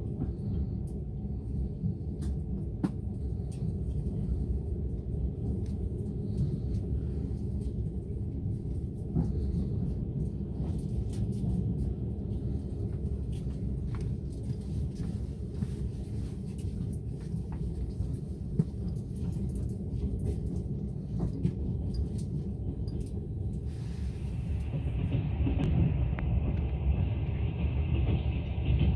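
Steady low rumble of a moving passenger train on the rails, with scattered short clicks. Near the end a higher steady hiss joins in.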